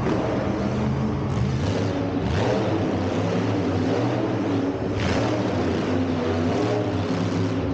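Monster truck engine heard from inside the cab, revving up and down as the throttle is worked, with a few brief rushes of noise as the revs surge.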